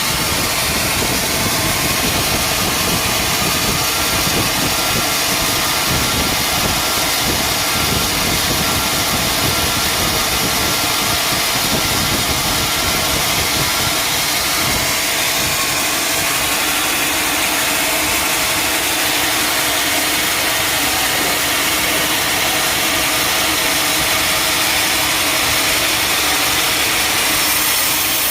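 Sawmill machinery running steadily: a loud, even mechanical noise with no break.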